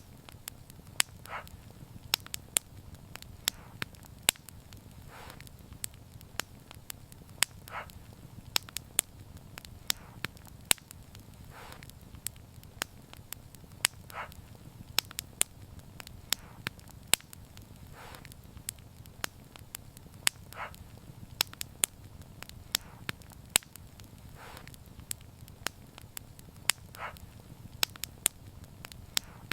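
Wood fire crackling, with sharp irregular pops over a low steady rumble and soft puffs every few seconds.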